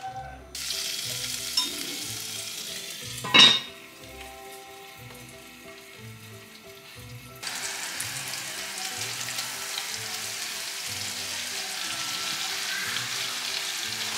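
Green beans sizzling in olive oil in a cast iron pot, then a single loud clank about three and a half seconds in, after which the sizzle drops away as the pot's lid goes on. From about seven seconds, flour-dusted white fish fillets frying in butter and olive oil in a frying pan, with a steady sizzle, over soft background music.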